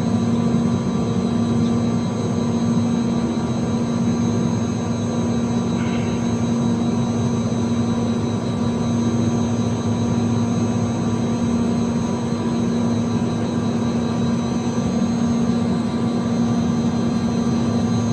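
York air-cooled chiller running, its condenser fans and compressor making a steady drone with a constant hum.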